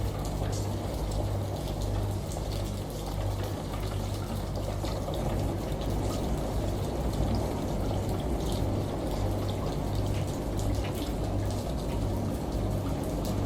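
Water running and pouring steadily, with a low hum underneath that comes and goes and scattered small drip ticks.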